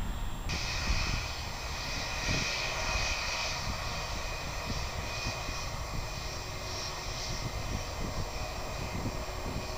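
Airliner engines running: a steady high whine and hiss over a low rumble. The high whine comes in suddenly about half a second in.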